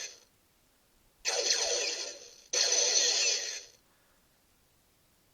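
Star Trek weapon-fire sound effects from a lights-and-sounds U.S.S. Enterprise toy's small speaker: two noisy blasts in quick succession, each about a second long and fading away, answering the quote "Arm phasers, fire everything we got."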